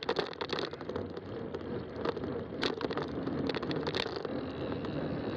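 Fat-tire bike rolling along a trail: a steady tyre rumble with frequent short clicks and rattles from the bike.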